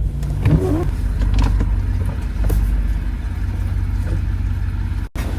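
Jeep Wrangler engine running with a steady low rumble. The sound drops out for an instant near the end.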